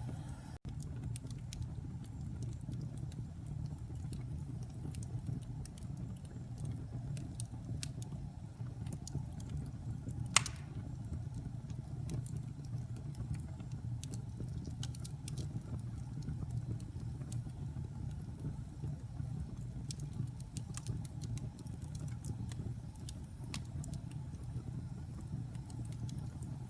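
Wood fire burning in a fireplace: a steady low rumble with scattered crackles throughout and one louder pop about ten seconds in.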